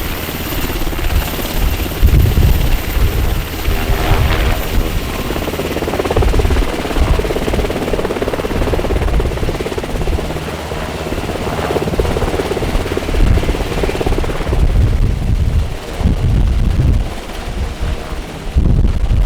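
UH-60M Black Hawk helicopter's rotors and turbine engines running, with an uneven, gusting low rumble. The higher part of the sound thins out in the last few seconds as the helicopter lifts off and departs.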